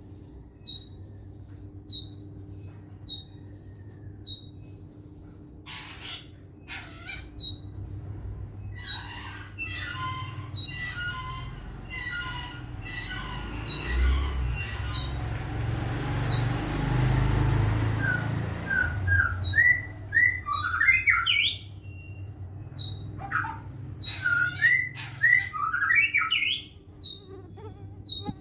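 A cricket chirps steadily, about two short high chirps a second, while a kolibri ninja (brown-throated sunbird) sings bursts of quick chirps and rising whistled notes. Partway through, a rushing noise with a low rumble briefly becomes the loudest sound.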